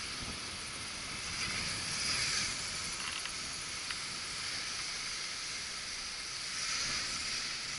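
Distant whine of a U807 quadcopter's small electric motors, faintly swelling and wavering about two seconds in and again near the end, under a steady hiss of wind. The owner calls the motors crappy.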